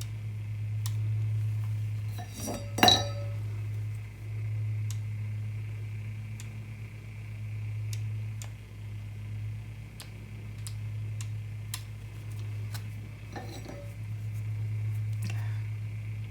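Steady low hum of an electric tumbler turner motor spinning a cup, with one sharp ringing clink about three seconds in and a few fainter clinks near the end as bottles are handled.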